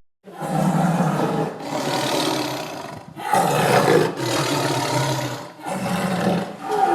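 A large animal roaring in about five long, rough, deep calls, each a second or so, with short pauses between them.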